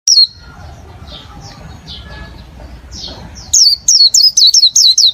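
Small bird chirping: one sharp falling chirp at the start, a few faint ones, then from about three and a half seconds a fast run of loud, high, falling chirps, about four a second.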